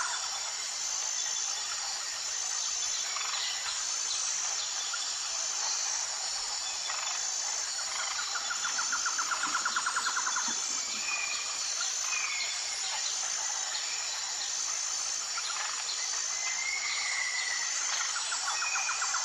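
Natural ambience of insects and birds: a steady high insect drone with evenly repeating pulsed calls. A rapid pulsed trill comes about eight seconds in and again near the end, with a few short gliding chirps between.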